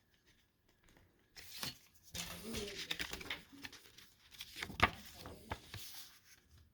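Paper booklet and inserts of a CD being handled: rustling pages with a few sharp clicks, the loudest nearly five seconds in.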